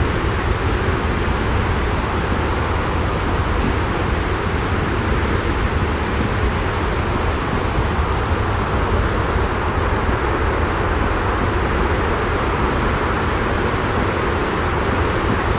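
Steady, unbroken rushing noise with a strong low rumble, a continuous ambient noise track for sleep.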